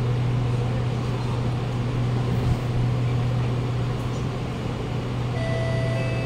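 Inside a Kawasaki Nippon Sharyo C751B train standing at a platform with its doors open: a steady low hum over a general rush of noise. Near the end, a door-closing warning chime starts sounding.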